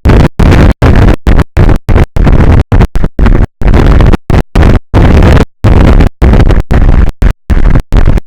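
Loud, distorted rumbling noise, heaviest in the bass, like wind battering an exposed microphone, cut off abruptly again and again by short dropouts of silence several times a second.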